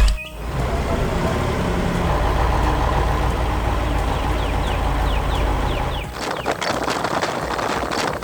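Heavy vehicle engine running with a steady low rumble, which turns rougher and noisier about six seconds in.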